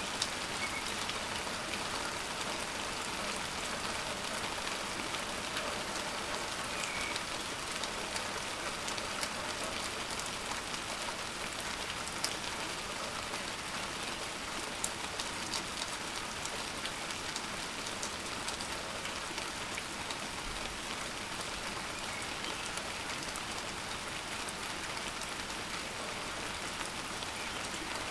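Heavy rain falling steadily in a thundery downpour, an even hiss with the odd sharper drop ticking through it.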